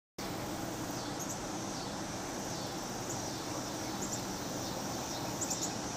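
Outdoor summer ambience: a steady background hiss with a few short, high chirps now and then.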